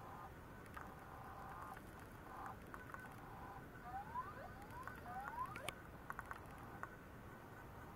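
Failing internal hard disk drive of an Apple PowerBook 520c making faint, erratic mechanical noises: short buzzing tones, then a run of quick rising chirps about halfway through, then a few sharp clicks. The owner takes these noises as a sign that the hard disk is dead.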